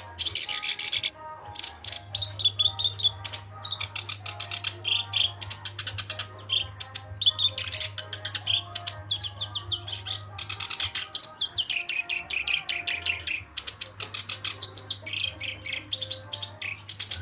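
Black-browed reed warbler singing a fast, continuous chattering song of harsh, clicking notes and quick trills, with a steady low hum underneath.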